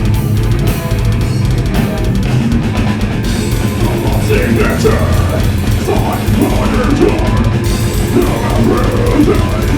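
A heavy metal band playing live: distorted electric guitars, bass and a drum kit, loud and dense. About four seconds in, a wavering pitched line comes in over the top.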